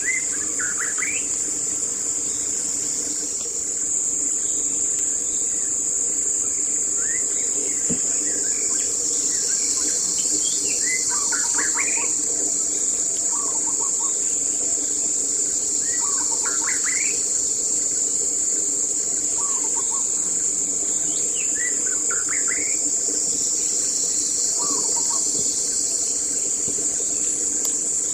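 A steady high-pitched insect drone with birds calling over it in short rising and falling chirps every few seconds, and a faint low hum underneath.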